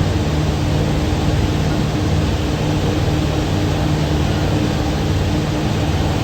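Thames Clipper catamaran's engines running steadily under way, a constant low drone with a hum, under a steady rushing noise.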